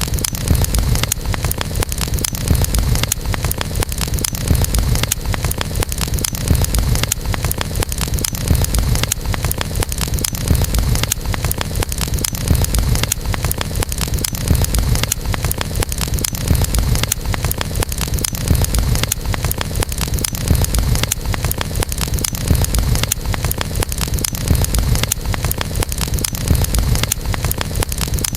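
Wood campfire burning: a constant run of small crackles and pops over a steady low rumble.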